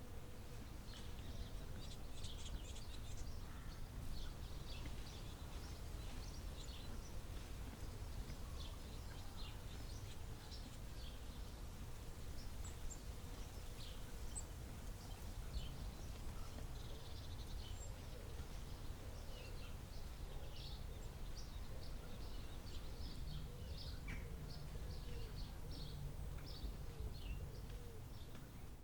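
Forest ambience: many small birds chirping, short high calls scattered and overlapping throughout, over a low steady rumble.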